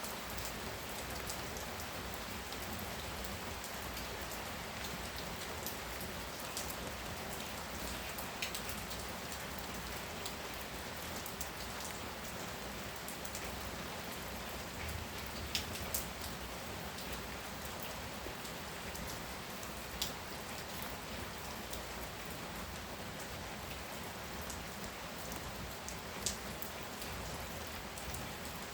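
Heavy rain pouring steadily, with scattered sharp taps of drops, a few louder ones standing out near the middle and later on.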